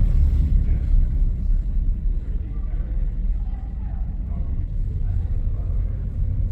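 Steady low rumble aboard a battery-electric passenger and vehicle ferry under way, with faint voices in the background.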